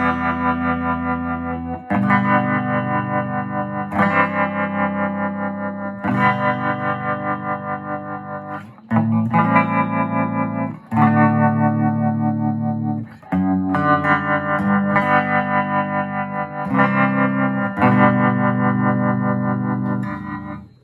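Electric guitar chords played through a circa-1965 Gibson GA-25RVT Hawk tube amp with its tremolo on, each chord left to ring and swelling up and down in an even pulse. A new chord is struck about every two seconds.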